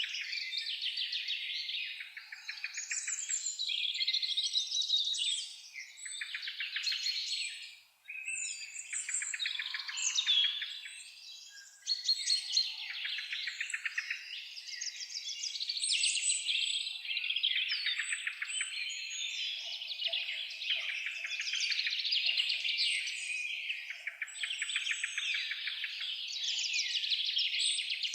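Several songbirds singing and chirping at once in fast, overlapping trills and twitters, with two short lulls about a third of the way in.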